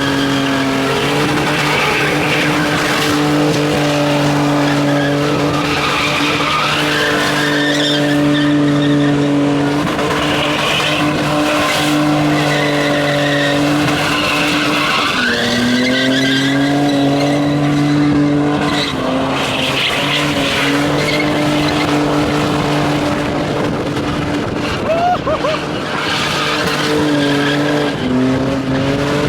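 A car engine held at high revs while its tires squeal, as in drifting or donuts; the revs dip and climb back up a few times.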